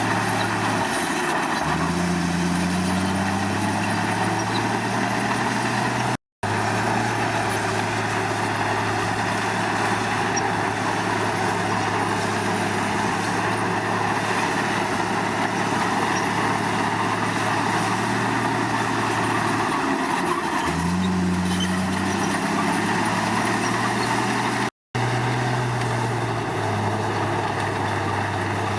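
Komatsu D53 crawler bulldozer's diesel engine running steadily under work, its pitch dipping and climbing again twice as the revs change, over a constant mechanical clatter and hiss. Two very brief dropouts to silence break it.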